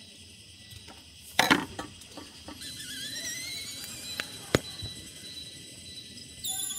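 A few sharp knocks and clinks, loudest about a second and a half in, then a rising squeaky whistle and another sharp click. Background music comes in near the end.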